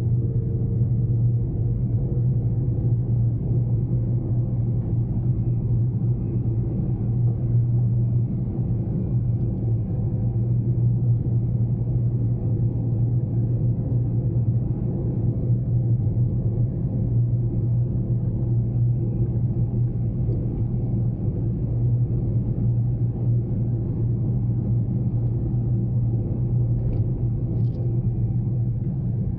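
Steady engine and road rumble inside the cabin of a Daihatsu Mira Cocoa kei car while it is driven, a low even drone that hardly changes.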